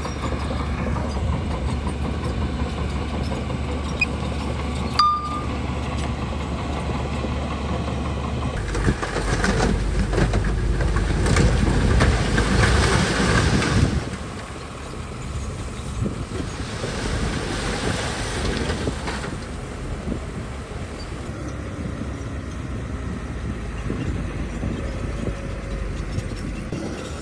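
Bulldozer's diesel engine running under load with its steel tracks clanking. The noise swells for a few seconds from about nine seconds in, then eases off.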